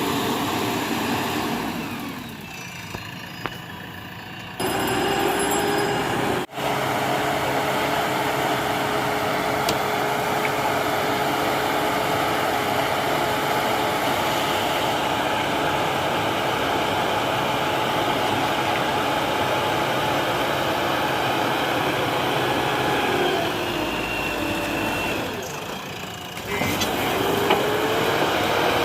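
JCB backhoe loader's diesel engine running steadily under working load, with a steady engine tone. It drops quieter about two seconds in, comes back abruptly, and cuts out for an instant soon after; near the end it dips again and returns with a rising pitch.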